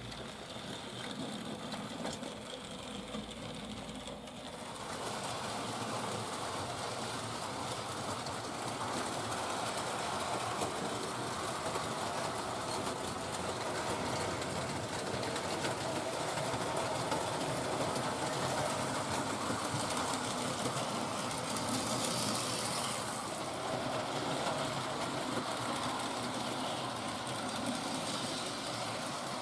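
Hornby Dublo model locomotive running on three-rail track: a steady running noise from its electric motor and wheels, which gets louder about four and a half seconds in.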